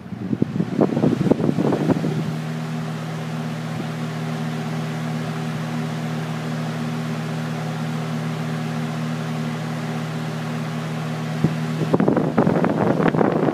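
Lasko Weathershield 20-inch box fan running with a steady motor hum. Its airflow buffets the microphone for the first couple of seconds and again near the end.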